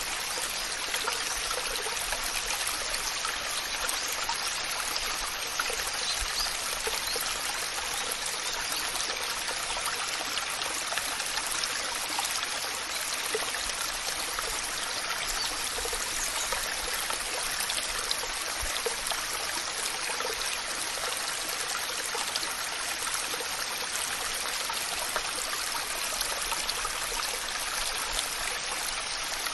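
Waterfall water rushing and splashing in a steady, even hiss, mostly in the middle and upper range, with no change throughout.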